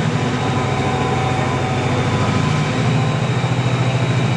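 Class 68 diesel-electric locomotive's Caterpillar V16 engine working hard as the train pulls away, a loud, steady thrash whose pitch shifts slightly partway through.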